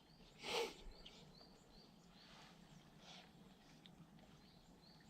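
Quiet outdoor ambience: a small bird repeats short high chirps, about three a second. A brief louder noise sounds about half a second in.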